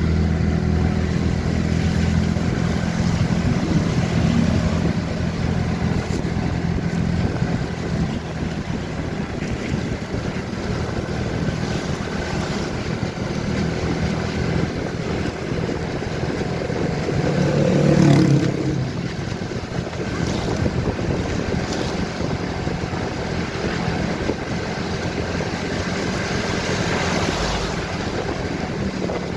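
Motorcycle riding along: the engine runs steadily beneath heavy wind noise on the microphone, with a brief louder swell about eighteen seconds in.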